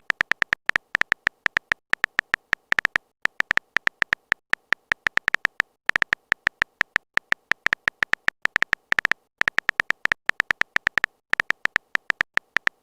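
Rapid, uneven string of short, high-pitched electronic ticks, several a second with brief pauses, like a text-typing sound effect as a chat message is typed out.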